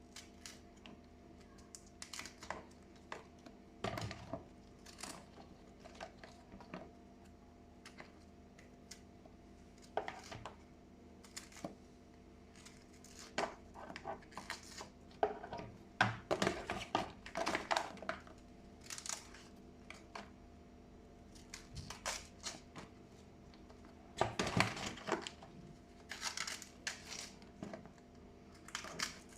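Kitchen food-preparation handling sounds: irregular crinkling and rustling with light clicks and knocks, busiest in the middle and again near the end, over a faint steady hum.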